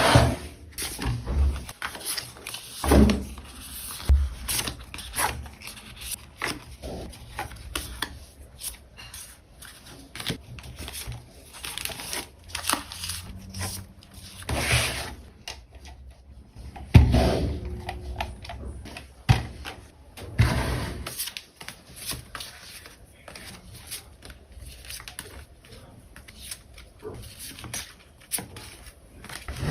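Hand-packing of small orders: irregular rustling of packaging with many light taps and clicks as items are handled, and a few louder handling bursts along the way.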